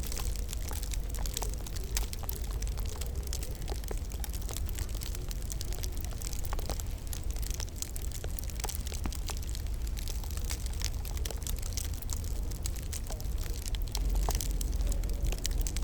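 Wood fire in a fireplace crackling: irregular sharp pops and snaps, several a second, over a low steady rumble of the burning logs.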